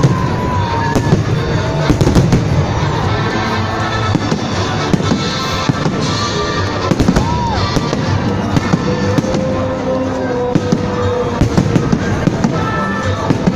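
Fireworks salute going off: a dense, unbroken string of bangs and crackles.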